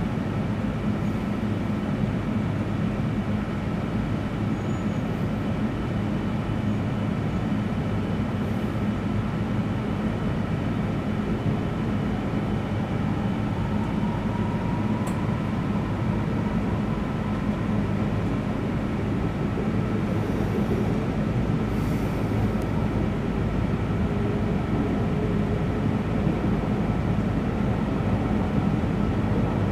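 Tohoku Shinkansen train running, heard from inside the passenger cabin: a steady rumble and rush of running noise, with a faint whine that rises in pitch about halfway through.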